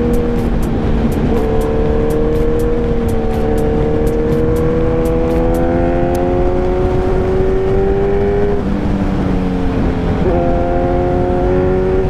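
Kawasaki Ninja 1000's inline-four engine under way, its pitch climbing slowly as the bike accelerates, then dropping suddenly at a gear change about eight and a half seconds in and stepping back up about two seconds later. Wind rushes over the microphone throughout.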